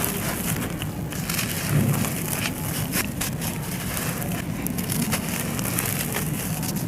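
Brittle, dry chunks being crushed and crumbled: a dense, continuous crackle of small snaps and cracks over a low grinding rumble.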